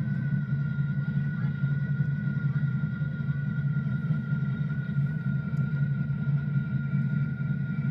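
Steady low rumble with a faint, steady high whine above it.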